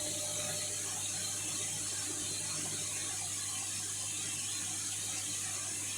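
Indesit My Time washing machine running: a steady low hum with a constant hiss.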